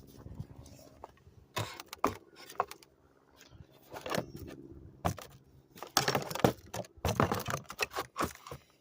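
Small metal parts clinking and rattling as the chrome engine-lid latch cover is handled and tried against the lid, in irregular clusters of sharp clicks, busiest near the end.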